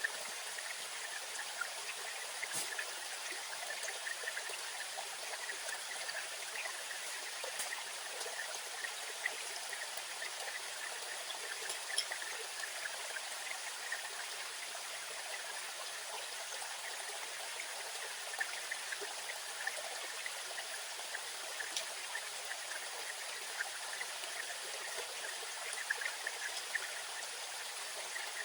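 Steady rushing of running water, like a forest stream, with faint scattered ticks.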